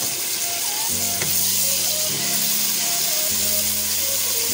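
Chopped tomatoes and sliced onions sizzling in hot oil in a frying pan, a steady loud sizzle. Soft background music with held notes plays underneath.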